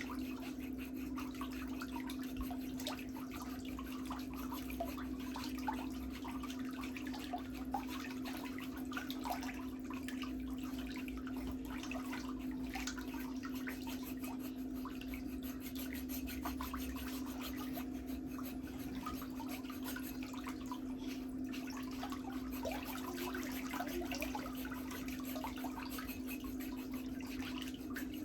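A steady low electrical hum under faint, scattered clicks and scrapes of toenail-care tools working on the nails.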